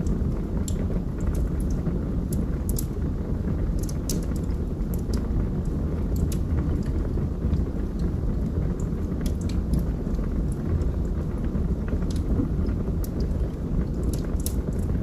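Log fire burning in a fireplace: a steady low rush of flame with irregular sharp crackles and pops from the burning wood.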